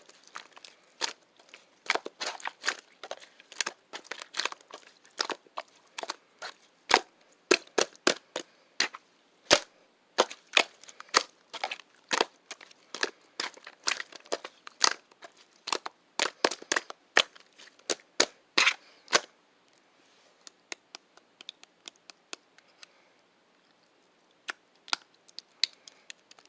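A rapid, irregular run of sharp clicks and cracks, several a second, thinning to scattered clicks about two-thirds of the way through.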